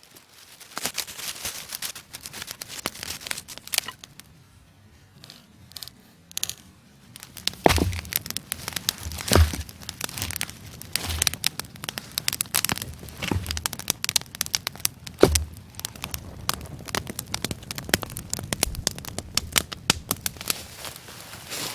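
Campfire crackling and popping, with several sharper snaps and knocks of wood; it goes quieter for a few seconds near the first third, then picks up again.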